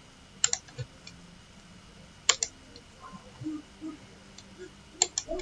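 Computer clicking: three quick pairs of sharp clicks, about two seconds apart, with a few fainter ticks between them.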